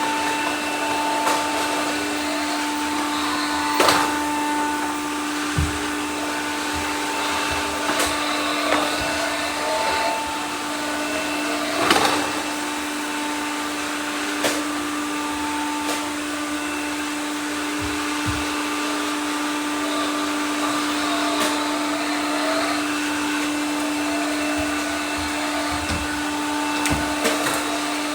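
Several robot vacuum cleaners running at once: a steady motor and brush hum with a tone that comes and goes, and a scattering of sharp knocks, the loudest about 4 and 12 seconds in.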